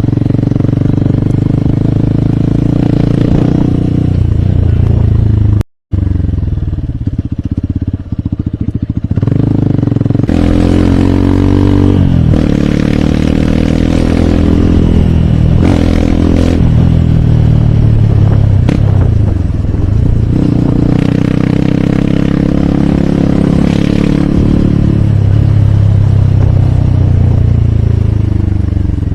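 Hero Hunk motorcycle's single-cylinder four-stroke engine under way, the revs climbing and falling back several times through gear changes in the middle, then holding fairly steady. The audio cuts out for an instant about six seconds in.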